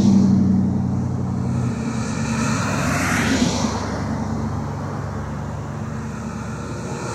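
Loaded coal train of open hoppers rolling past: a steady rumble of wheels with the low drone of a diesel locomotive, and a slow sweeping whoosh rising and falling twice.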